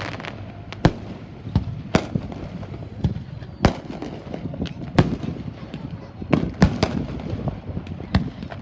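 Fireworks going off: a rapid, irregular series of sharp bangs, about one or two a second, some louder than others, each trailing off in a short echo.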